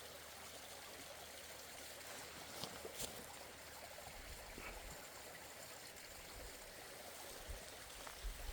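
Faint steady rush of running water.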